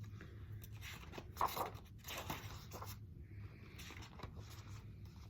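Faint rustling, scraping and crinkling of paper, as of a picture book being opened and its pages handled, in short irregular bursts over a faint steady room hum.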